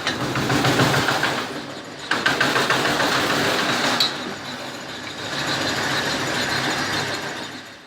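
Homemade engine-driven firewood splitter running with a dense, rapid mechanical clatter, with a couple of sharp knocks along the way.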